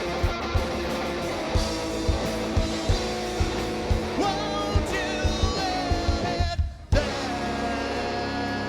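Rock band playing live: electric guitars and bass over a steady drum beat, with a short break about two-thirds of the way through before the band comes back in.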